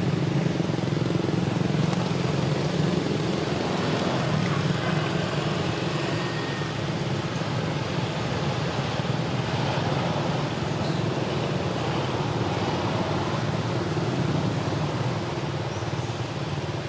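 Steady low engine-like hum over a bed of outdoor traffic noise, with no clear changes.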